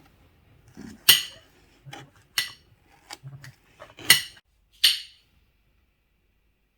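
Cutlery and dishes clinking: about half a dozen sharp, ringing clinks and knocks over some five seconds, the loudest about a second in and about four seconds in.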